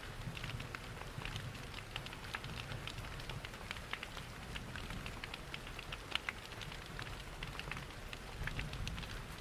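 Rain pattering mixed with the crackle and pops of a wood fire in a fireplace, over a steady low rumble.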